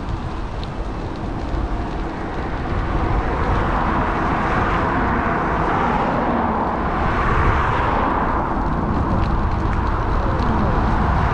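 Steady rushing road and wind noise picked up by a GoPro on a moving electric bike, growing louder about three seconds in.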